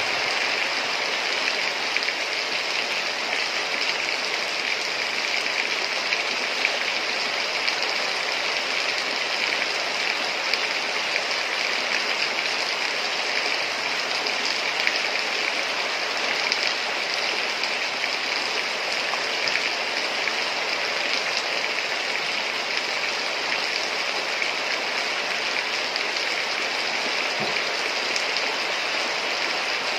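Heavy rain falling steadily in a dense, even hiss, with small drop ticks throughout.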